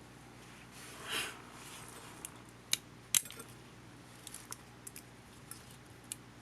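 Small clicks and taps of a camcorder's small plastic and metal parts and tools being handled, with a brief brushing sound about a second in and two sharp clicks near the middle.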